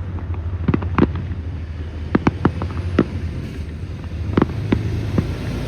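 Scattered sharp cracks of fireworks, about a dozen at irregular spacing, over a steady low rumble.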